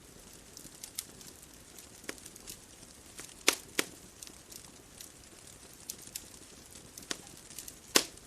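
Bonfire crackling: irregular sharp pops and snaps over a soft, steady hiss, with the loudest pops about three and a half seconds in, again a moment later, and near the end.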